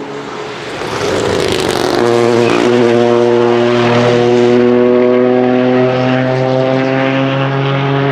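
Rally car going by with a rush of noise, then its engine note holding steady and rising slowly in pitch as it accelerates.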